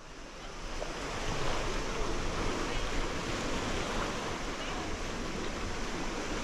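Sea waves washing onto a beach, a steady rushing noise with some wind on the microphone, fading in over the first second or so.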